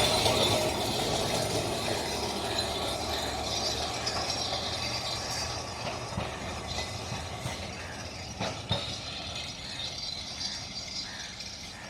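Kolkata electric tram running on its rails with a rattling, clattering rumble that fades steadily as it moves off. A few sharp knocks come about two-thirds of the way through.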